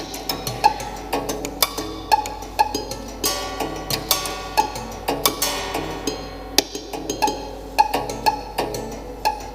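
Piano stripped of its keys and hammers, its strings sounded by fitted mechanical devices: irregular clicks and taps, with short piano-string notes ringing out among them.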